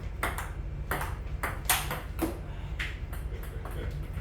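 Table tennis rally: a celluloid ball clicking off paddles and the table about twice a second, one hit louder than the rest a little under two seconds in, over a steady low hum.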